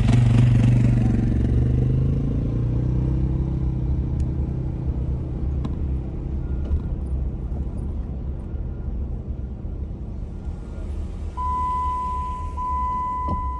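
Motor vehicle engine running with a low rumble, loudest in the first couple of seconds as it pulls away, then settling into a steady drone. About eleven seconds in, a steady high-pitched tone starts and holds over the engine.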